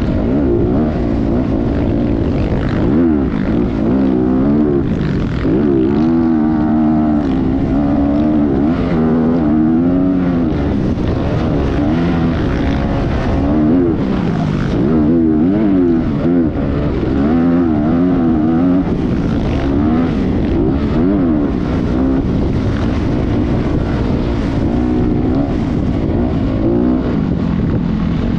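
Motocross dirt bike engine being ridden, its pitch rising and falling every second or two as the throttle is opened and closed and the gears change.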